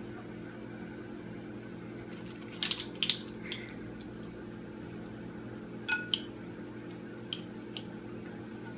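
Light clinks and taps of kitchen utensils and a measuring cup, two sharper knocks about three seconds in and a couple more about six seconds in, over a steady low kitchen-appliance hum.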